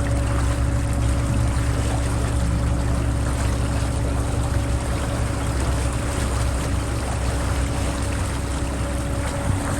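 A small passenger boat's engine running with a steady low drone and hum, with water rushing and splashing past the hull as it travels.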